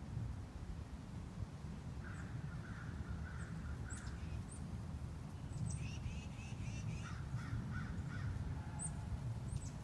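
Outdoor birds calling: runs of repeated call notes from about two seconds in, with a few thin, high chips from small birds, over a steady low rumble of background noise.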